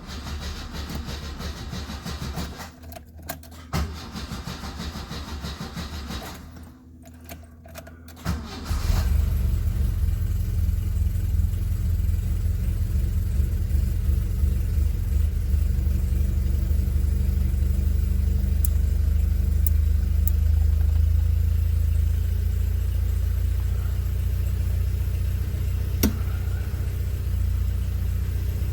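Alfa Romeo Spider 2000's twin-cam four-cylinder engine on a cold start. The starter cranks it in two spells, a pause with a few clicks follows, then it catches about nine seconds in and settles into a steady idle.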